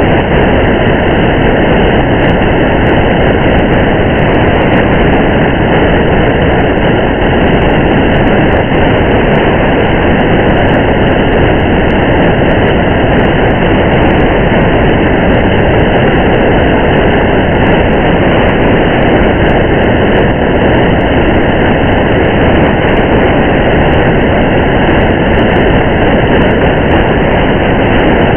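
Steady rain and road noise of a car driving on a wet highway: an even, unbroken hiss that stays at one level throughout.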